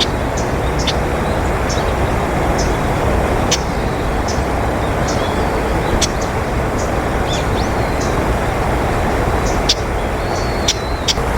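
Steady low rushing background noise, with small birds giving many short, high chirps and a few brief sliding notes scattered throughout.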